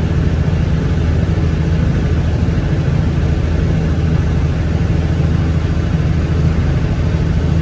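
Boat motor running with a steady low rumble.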